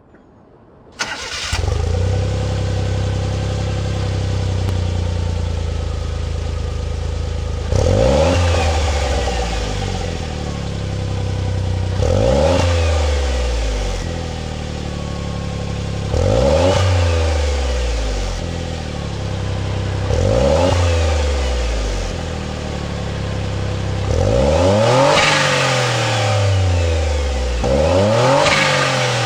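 Suzuki Cappuccino's small turbocharged three-cylinder engine breathing through a TYPE Sp-X stainless aftermarket muffler. It starts about a second in and idles steadily. It is then revved and let fall back to idle six times, about every four seconds.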